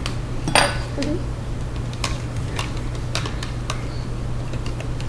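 Light clicks and taps from containers and utensils being handled while honey is added to the mixture, a few seconds apart, over a steady low hum.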